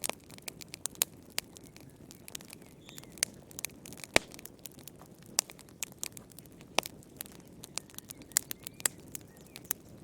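Wood fire crackling: irregular sharp pops and snaps over the low steady rush of the flames, with one louder pop about four seconds in.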